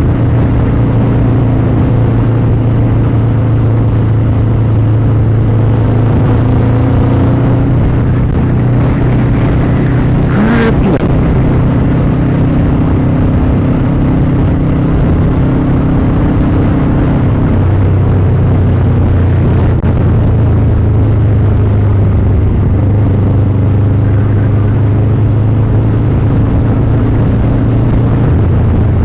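Motorcycle engine running steadily at riding speed under a constant rush of noise. Its pitch shifts and settles a little past the halfway point, and a short rising sound cuts in about ten seconds in.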